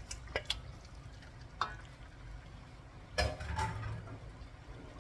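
Spoon knocking and scraping against a cooking pot as raw chicken pieces are stirred into a cooked masala paste, a few sharp clicks followed by a louder clatter about three seconds in.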